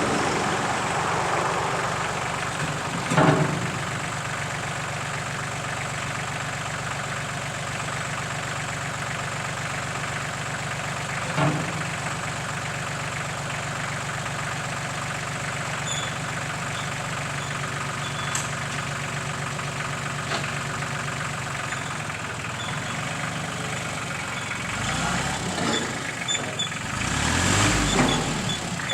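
Tractor loader's engine running steadily, with two sharp clunks, about three and eleven seconds in, and louder working noise near the end.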